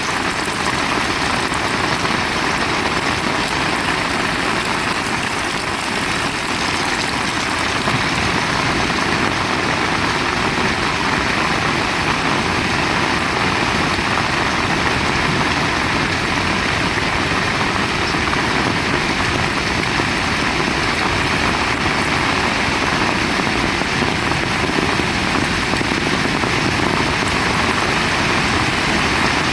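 Heavy rain pouring down in a dense, steady hiss that does not let up.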